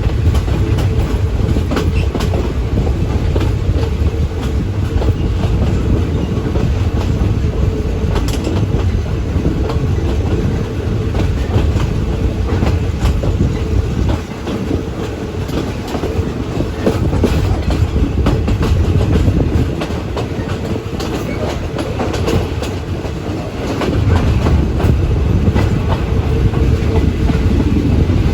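Passenger train carriage running at speed, heard from aboard: a loud, steady rumble of wheels on rail with clickety-clack from the track, easing briefly about halfway through and again for a few seconds later on.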